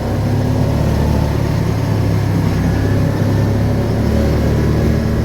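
Vehicle engine and road noise while driving along at steady speed: a constant low drone with an even rushing hiss above it.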